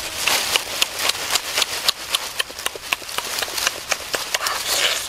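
Close-up eating sounds of a whole roasted turkey being bitten and chewed: rapid, irregular wet smacking and crunching clicks.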